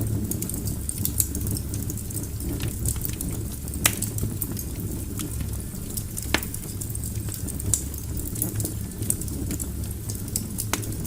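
Wood logs burning in a fireplace, crackling with irregular sharp pops over a steady low rumble of flame. Louder pops come about four seconds in and again a little past six seconds.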